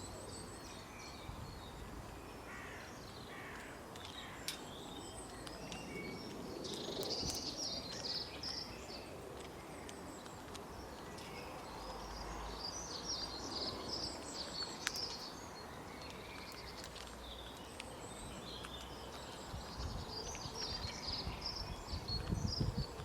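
Small birds chirping in several bursts of quick, high notes over a steady outdoor background hiss, with a few low rumbles near the end.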